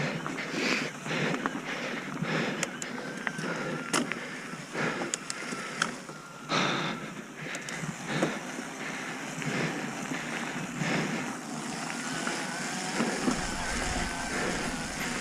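Mountain bike rolling downhill over a rough dirt trail: a steady rush of tyre and wind noise broken by irregular knocks and rattles as it hits bumps.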